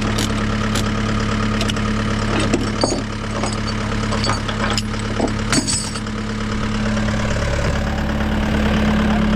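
Heavy diesel truck engine idling steadily, with scattered sharp metallic clicks and clanks over the first six seconds and a deeper rumble building from about seven seconds in.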